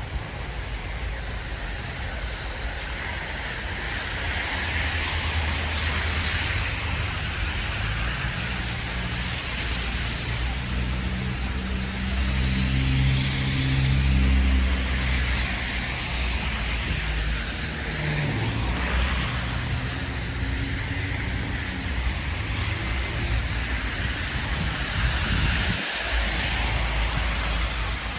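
City street traffic: cars passing with swelling tyre hiss, and a heavier engine rumble loudest about halfway through.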